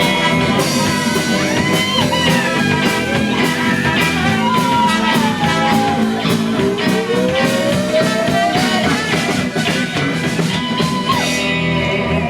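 Rock band playing: a guitar lead line with slow bending, gliding notes over bass and steady drums.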